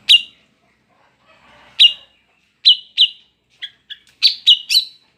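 Female green leafbird (cucak ijo) in breeding condition giving sharp, high chip calls. The notes come singly at first, then in a pair, then in a quicker run of shorter notes near the end.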